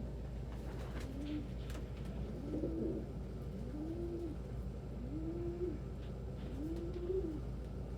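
Domestic pigeon cooing: a low, rising-and-falling coo repeated about every second and a half.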